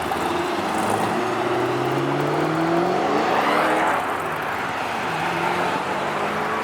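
A car engine accelerating hard as the car pulls away, its pitch rising for about three seconds. It drops back and eases off about four seconds in.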